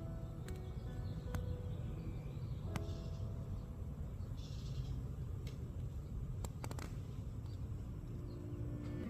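A kitten eating: scattered sharp clicks and short crunchy chewing sounds over a steady low hum.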